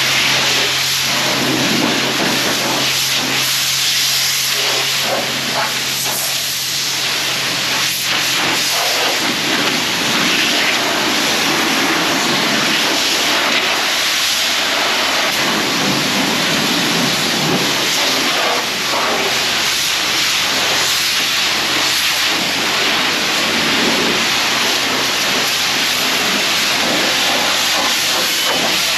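High-pressure spray from a self-serve car wash wand hitting a car, a steady loud hiss of water. A low steady hum underneath stops about nine seconds in.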